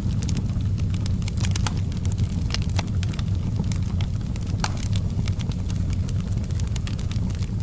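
Wood fire burning in a fireplace: a steady low rumble of flames with frequent sharp crackles and pops, the sharpest about two and a half and four and a half seconds in.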